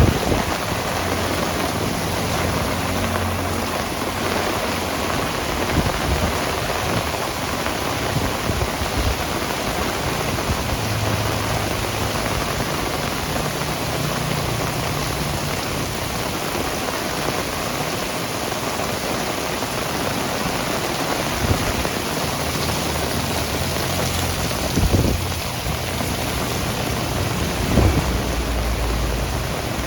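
Heavy rain pouring steadily. Low rumbles come and go, with a couple of short thumps near the end.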